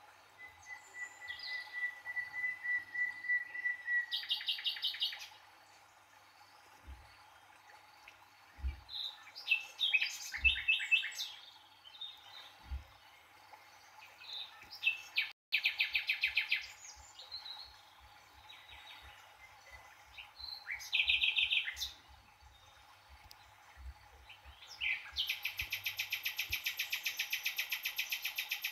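Birds chirping and trilling: a long steady whistle near the start, then scattered short calls and rapid trills, and a long buzzy trill near the end, over a faint steady hum.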